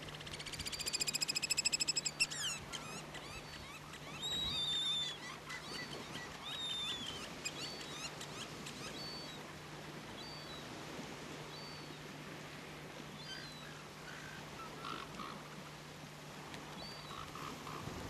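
Birds calling: a fast buzzy trill for about the first two seconds, then falling whistled calls about four and seven seconds in, over short high peeps repeated every second or two.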